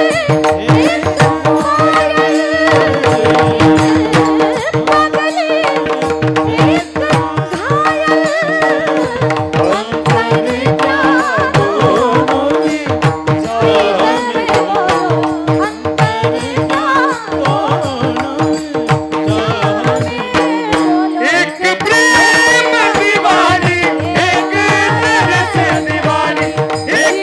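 Devotional kirtan music: a melody winding over steady held drone notes, driven by fast hand-drum strokes throughout.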